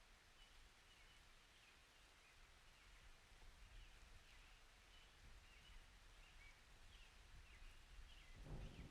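Faint forest ambience with small birds chirping now and then; a low thunder rumble starts to build near the end.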